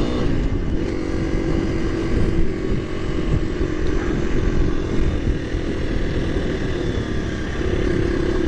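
KTM 350 EXC-F's single-cylinder four-stroke engine running under way on a dirt bike. The revs drop right at the start, then hold steady, over a constant low rumble.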